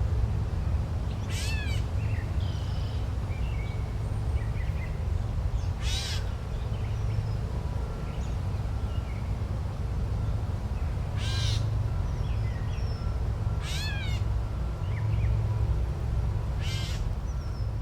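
A crow cawing, five single calls a few seconds apart, over a steady low rumble with faint chirps from smaller birds.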